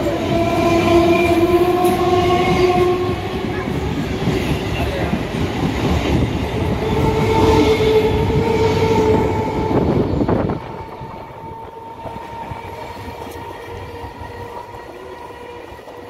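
Electric multiple unit local train running past along the platform, its wheels clattering on the rails. Two long steady pitched tones sound over the run. About ten seconds in, the loud train noise stops abruptly and a much quieter background is left.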